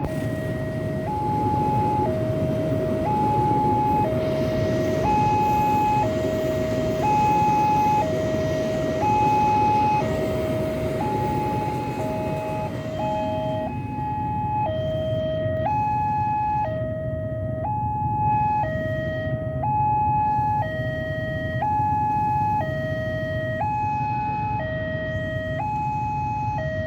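A two-tone hi-lo siren or warning alarm, a lower and a higher note alternating about once a second without pause, over a steady low rumble of traffic or engine noise.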